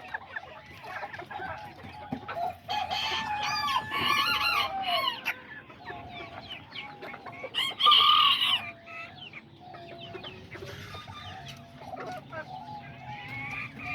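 Kikiriki bantam chickens: a rooster crows in a long call about three seconds in, another loud call comes about eight seconds in, and hens cluck with short, repeated calls throughout.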